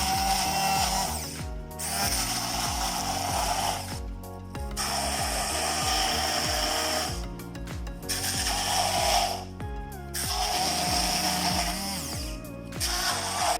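Electric blender grinding soaked chickpeas with onion, garlic, green chilli and herbs into a falafel paste, run in about six bursts with brief stops between them.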